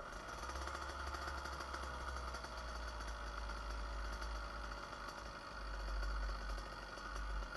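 Small 66cc two-stroke motorized-bicycle engine running steadily, its pitch dropping a little in the first second or two and then holding.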